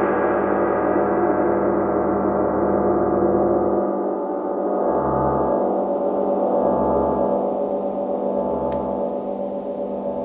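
Gong being played, ringing with a dense wash of sustained overtones. Three soft low throbs sound in the second half, and the ring slowly fades toward the end.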